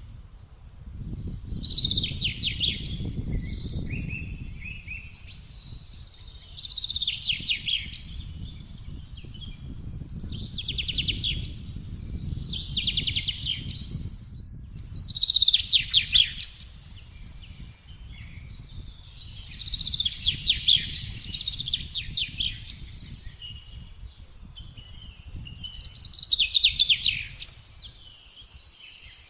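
A songbird singing short, rapid trilled phrases that slide down in pitch, about seven times, each a second or two long, over a steady low rush of wind.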